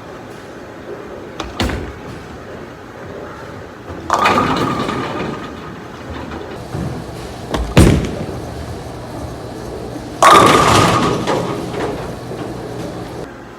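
Handling noises: a few clicks, a sharp knock about eight seconds in, and two longer rushing scrapes, each starting suddenly and fading over a second or two.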